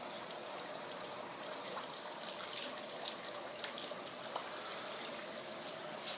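Floodwater pouring and running steadily, a continuous rushing splash with small ticks of drops.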